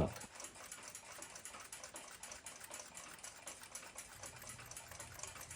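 Faint, quick light clicking over a low hiss: small metal parts of a clock movement being handled as its front plate is taken off.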